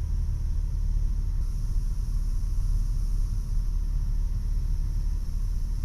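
Cessna 172's engine and propeller droning steadily in flight, a deep, muffled rumble heard from a lav mic inside the pilot's ear.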